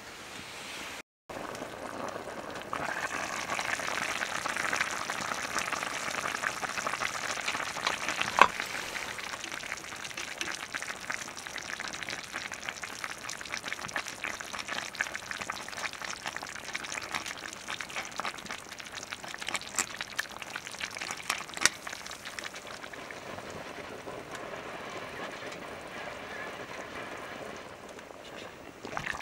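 Food sizzling as it fries in a hot pan, a dense crackle with a couple of louder pops. The sound cuts out briefly about a second in.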